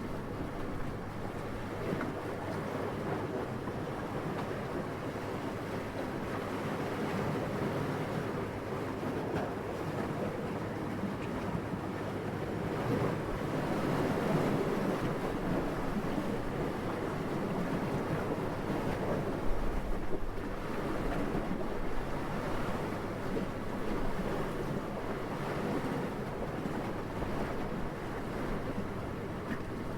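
Steady, gentle wind: a soft, even rushing that swells slightly about halfway through and then settles again.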